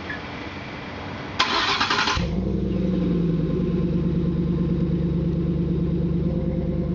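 Ford F-150 engine remote-started through a two-chamber Flomaster muffler with 4-inch side-exit piping. The starter cranks briefly about a second and a half in, the engine catches about two seconds in, and it settles into a steady idle.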